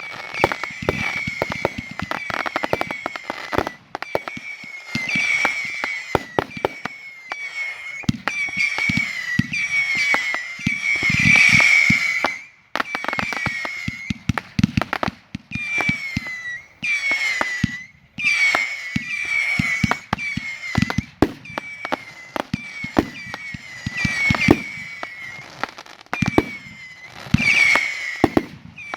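Fireworks being fired in rapid succession: sharp bangs and crackling with many whistles that drop in pitch, broken by a few brief lulls.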